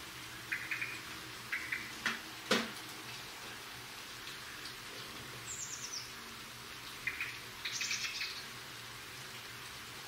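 Birds chirping in short stuttering bursts, several times, with a high descending trill near the middle. A single sharp tap about two and a half seconds in is the loudest sound.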